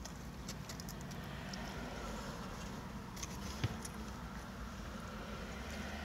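Chewing with small mouth clicks over a low steady rumble inside a car, with one sharper knock a little past halfway.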